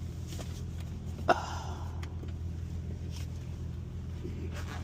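Semi truck's diesel engine idling, a steady low hum heard from inside the cab's sleeper, with one sharp click about a second in.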